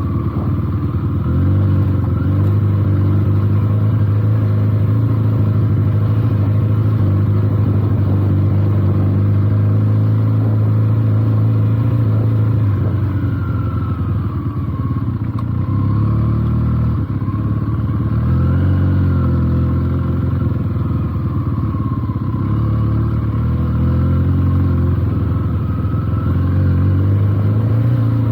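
Benelli TNT 300's parallel-twin engine running as the motorcycle is ridden over a rough dirt track, its revs dropping and rising again several times as the throttle is closed and reopened.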